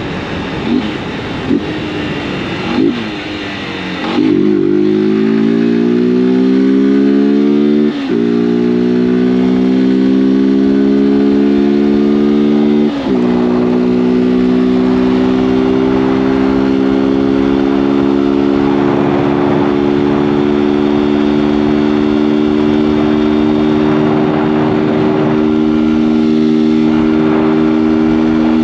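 Honda CG 160 Fan's single-cylinder engine pulling away and accelerating, its pitch rising. It shifts up about eight seconds in and again about thirteen seconds in, each time with a brief dip, then settles into a steady cruise.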